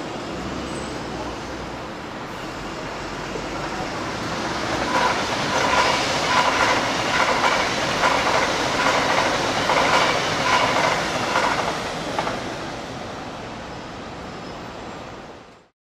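A CRH1 electric multiple unit passing on the track: a rumble that swells as it approaches, then a rhythmic clickety-clack of its wheels over the rail joints for several seconds. The sound fades as the last car goes by.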